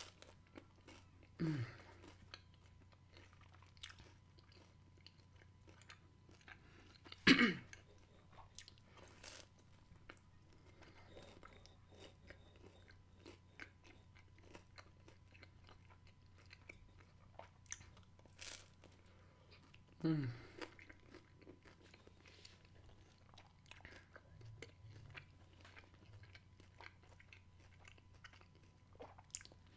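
A person biting into and chewing a slice of oven-baked pizza with grilled vegetables: soft, scattered crunching and mouth clicks. A few brief vocal sounds with a falling pitch come about 1.5, 7 and 20 seconds in, the one near 7 seconds the loudest.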